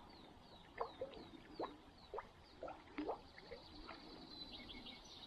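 Faint birdsong from the surrounding forest: a quick series of short, high, falling chirps, with a few faint clicks and ticks among them.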